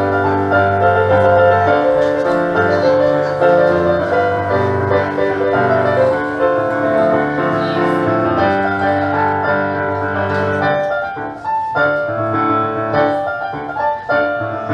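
Piano music: a melody over sustained chords.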